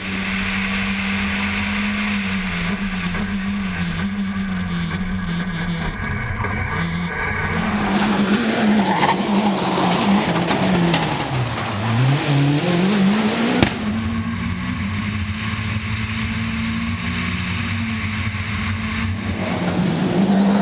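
Citroen DS3 WRC rally car's 1.6-litre turbocharged four-cylinder engine at racing speed, heard from inside the cabin, the revs rising and falling through gear changes. A little past halfway the revs drop sharply and climb again.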